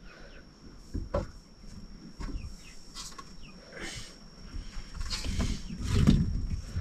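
Outdoor rural ambience with short bird chirps, a steady high thin tone, and scattered knocks and handling noises.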